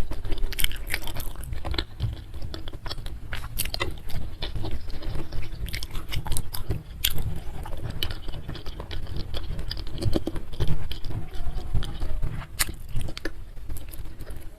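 Close-miked eating sounds: soft-braised chicken feet being bitten and chewed, with wet smacking and irregular small crunches and clicks.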